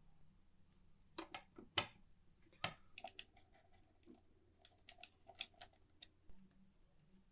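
Scattered light clicks and taps of small metal typewriter parts and hand tools being handled, about a dozen irregular ticks, the sharpest nearly two seconds in, over a faint steady hum.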